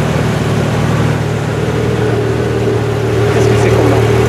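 Pagani Zonda F Roadster's 7.3-litre Mercedes-AMG V12 idling steadily, a little louder over the last second or so.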